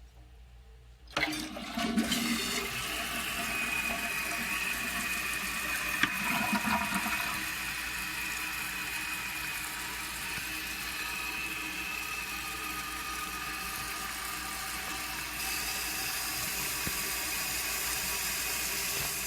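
A 1995 Mansfield Alto toilet flushing about a second in with a rush of water, then its tank refilling with a steady hiss and a thin whistling tone. The fill shuts off abruptly right at the end, and the whole cycle is fast.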